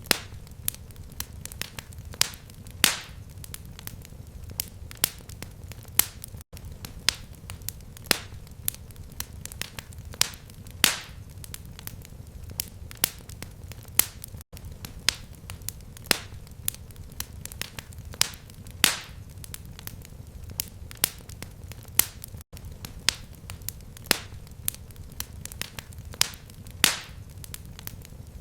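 Fireplace fire crackling: irregular sharp pops and snaps over a low steady rumble. It is a short loop: the same loud pop comes back every eight seconds, with a brief gap where the loop restarts.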